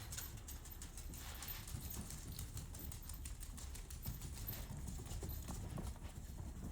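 Dachshund puppies running about in play, their paws and claws making quick, irregular clicks.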